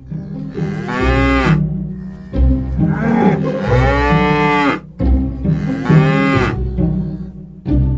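Cow mooing: a few long moos, each rising and then falling in pitch, over background music with a steady bass line.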